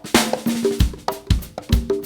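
Band music, instrumental section: a drum kit plays a groove of kick and snare hits, with a cymbal crash at the start, under short pitched notes from the other instruments.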